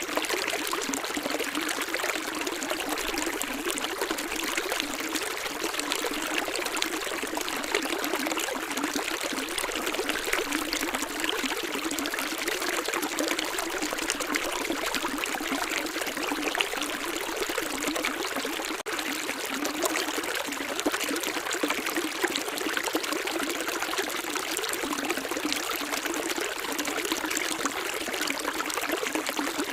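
Running water of a small stream, a steady trickling and splashing with no deep rumble.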